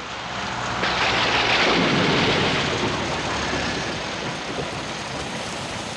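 Heavy rain with a rumble of thunder that swells about a second in and slowly dies away.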